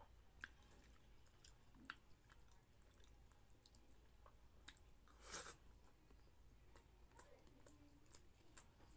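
Faint close-up chewing of a mouthful of rice and pork menudo, with scattered soft mouth clicks and one louder brief sound a little past halfway through.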